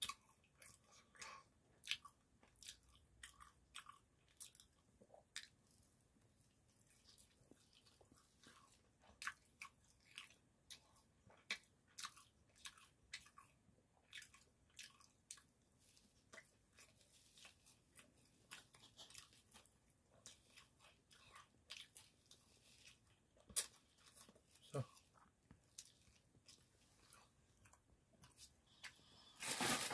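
Close chewing and biting of spicy sundae (Korean blood sausage) skewers: a faint, irregular run of small mouth clicks through the whole stretch, with a louder rustle starting right at the end.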